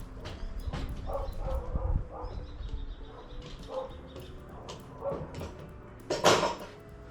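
A dog whimpering and yipping in short high calls, about one a second, with one louder sharp sound near the end.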